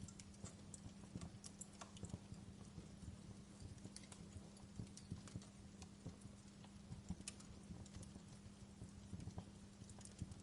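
Fire crackling: irregular sharp pops and snaps over a soft hiss, with a steady low hum underneath.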